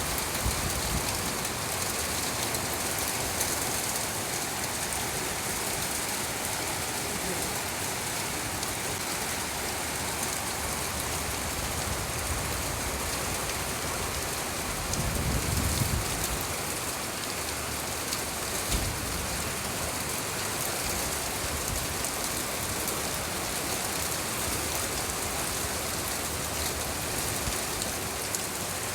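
Steady rain falling, a dense even hiss of drops on surfaces, with a brief low rumble about halfway through.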